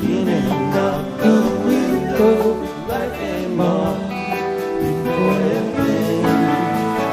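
Live rock band playing an instrumental passage, guitar lines bending and sustaining over bass and drums.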